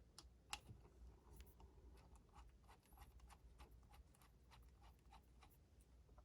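Faint, scattered light clicks and taps of small metal parts and tools being handled during engine assembly, one a little louder about half a second in, over low room hum.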